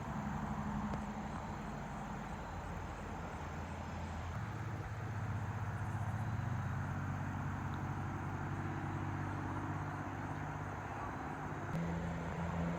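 A large engine running steadily at low speed, a low hum that swells a little in the middle and steps up slightly in pitch near the end.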